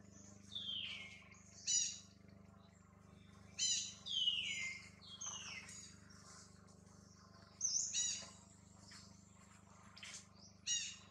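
Birds calling in the trees: several whistled notes that slide down in pitch, mixed with short, sharp chirps, coming every second or two with gaps between.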